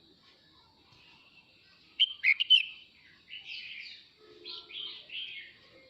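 Male red-whiskered bulbul singing its flock-calling song: a loud, quick phrase of a few notes about two seconds in, followed by softer chattering notes.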